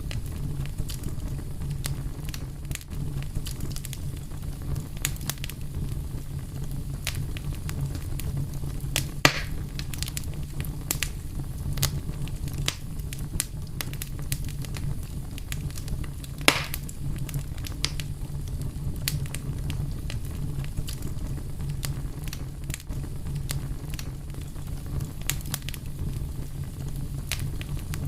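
Fire crackling steadily over a low rumble, with many small scattered pops. Two louder sharp pops, about nine seconds in and about sixteen seconds in.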